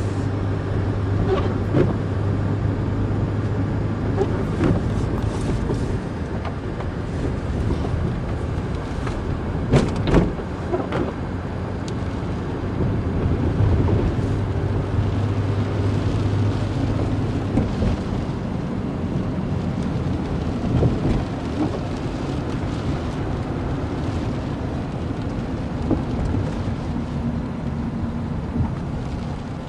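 A car being driven slowly: a low steady engine hum that strengthens and fades, over road and wind noise, with scattered sharp knocks and cracks, the loudest about ten seconds in.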